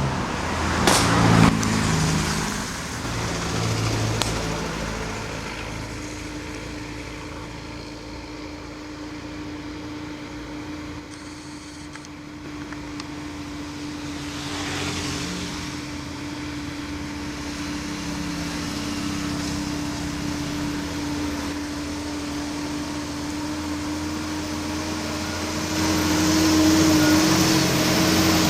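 Vehicle engines running under load on a steep uphill road, with a close pass about a second in and another around the middle. A steady engine hum continues, growing louder near the end.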